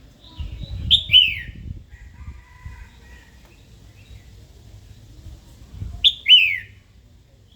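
Female red-whiskered bulbul giving two sharp calls about five seconds apart, each a quick downward-sweeping note, with fainter bird notes between them and a low rumble under the first call. This is the female's provoking call that keepers use to excite a newly caught male.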